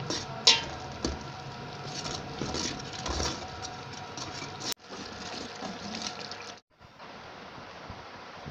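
Spiced masala sizzling as it fries in oil in a metal pot while a metal spoon stirs it, scraping and knocking against the pot; the loudest knock comes about half a second in. The sound cuts out abruptly twice, then a quieter, even sizzle carries on.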